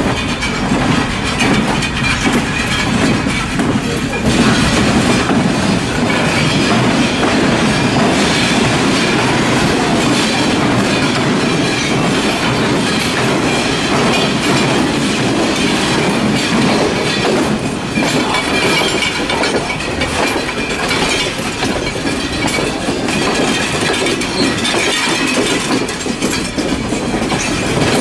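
Passenger train running on the line, heard from inside a carriage: a steady rumble and rattle with the wheels clacking over the rail joints.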